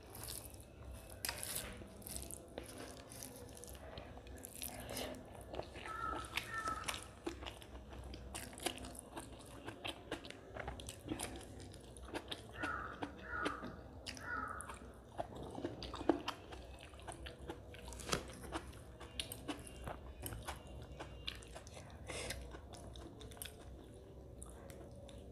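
Close-miked eating sounds: wet chewing and lip smacking of rice and mutton curry eaten by hand, with many short clicks and the odd crunch of raw salad. A few short, high chirps come through twice, about six seconds in and again around thirteen seconds.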